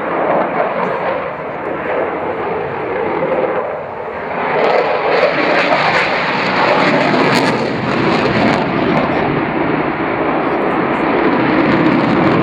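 Eurofighter Typhoon's twin EJ200 turbofan jet engines at display power: a loud, rushing jet noise that swells about four and a half seconds in and stays loud.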